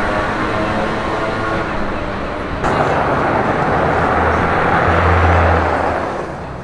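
Street traffic: an engine hum, then a vehicle passing close by from about two and a half seconds in, swelling to its loudest near five seconds and fading away near the end.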